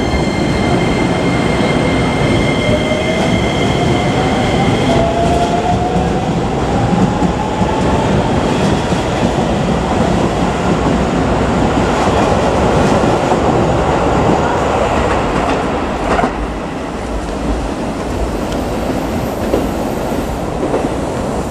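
Electric commuter train running along the track with a loud, steady rumble and wheel clatter. Over the first several seconds a whine rises in pitch as the train picks up speed.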